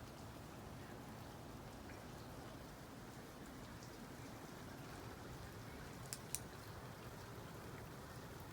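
Heavy wet snowfall just above freezing, a faint steady hiss with two sharp ticks about six seconds in.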